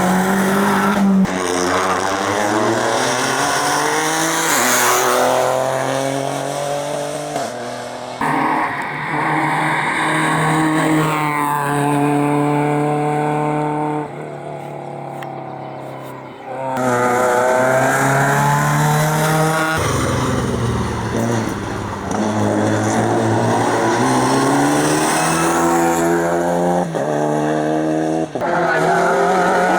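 Racing cars on a hillclimb, engines revving hard and climbing in pitch through the gears, dropping back at each shift, with some tyre squeal. One car follows another with abrupt changes, and there is a quieter, more distant stretch about halfway through.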